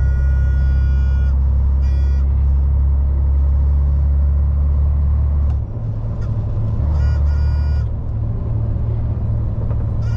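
The diesel engine of a MAN lorry running under way, with a deep steady drone. The drone breaks off about five and a half seconds in and comes back at a different pitch. A thin high tone with overtones sounds briefly near the start and again around seven seconds in.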